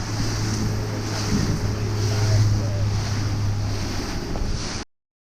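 Boat motor running steadily under wind buffeting the microphone and water noise; the sound cuts off abruptly near the end.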